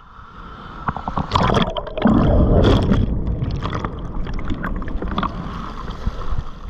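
Ocean wave breaking over and churning around the camera in the shore break: rushing, gurgling water, loudest from about one to three seconds in, then settling into a steadier wash.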